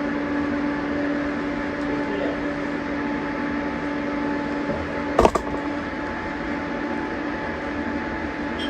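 Steady machine hum with a steady tone that stops about five seconds in, at a single sharp click; the hum goes on after it.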